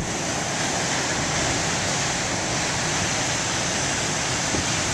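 Steady rush of wind on the microphone, with ocean surf beneath it.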